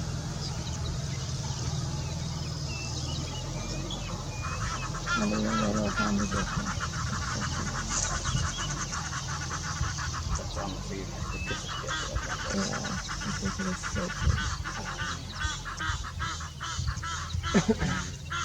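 Birds calling: long runs of rapid, repeated honking call notes that start a few seconds in and carry on, over a low steady rumble.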